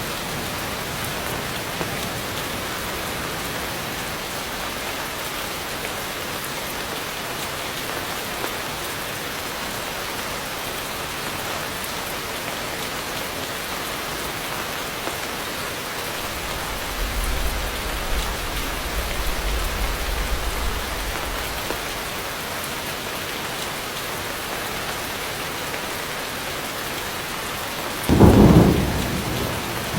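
Heavy rain falling in a steady hiss. A low rumble of thunder swells between about 17 and 21 seconds, and a sudden, louder thunderclap comes near the end.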